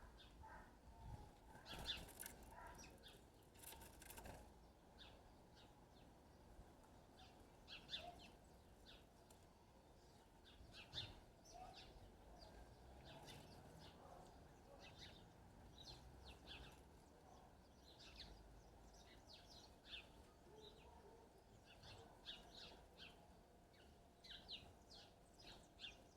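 Faint, short bird chirps repeating in scattered clusters throughout, over a low background hiss, with a couple of brief rustling bumps in the first few seconds.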